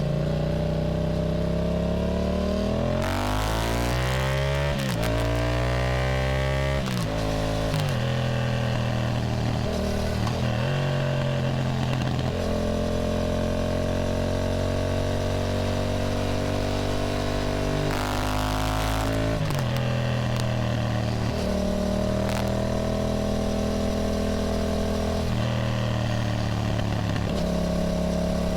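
Yamaha motorcycle engine heard from the rider's position. About three seconds in it accelerates through quick upshifts, each change dropping the pitch, then settles into a steady cruise. Near eighteen seconds in the revs rise again.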